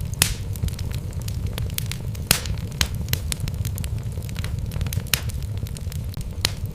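Wood logs burning in a fireplace: a steady low rumble of the fire with irregular crackles and sharp pops, a few louder snaps scattered through.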